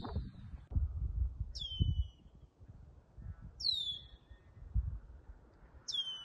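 A bird calling: a short, high whistle that slides sharply downward, repeated three times about two seconds apart. Low rumbling and dull thumps sit underneath.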